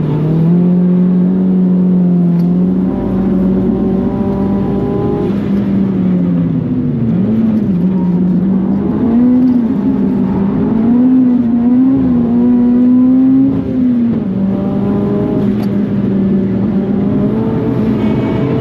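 Mitsubishi Colt R's turbocharged four-cylinder engine running at fairly steady revs under way. The pitch wavers up and down in the middle, then settles level again.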